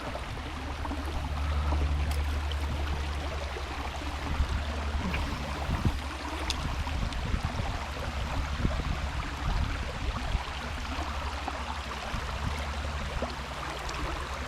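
River water rushing and gurgling over a shallow riffle, a steady even wash, with a low rumble underneath and a few faint clicks.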